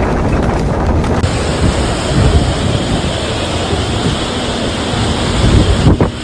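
Loud storm noise: strong wind buffeting the microphone over a steady rushing roar. The sound changes abruptly about a second in and again near the end.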